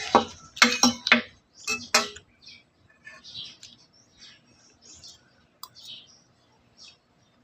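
Utensils clinking and scraping against dishes while eating, a quick run of sharp clicks for about two seconds, then fainter, scattered ones.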